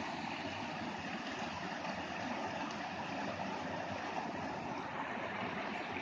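Overflowing rainwater running in a steady, unbroken rush.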